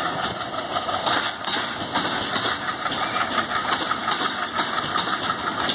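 Loaded container freight wagons rolling past, their steel wheels clattering rhythmically over the rail joints above a steady rumble.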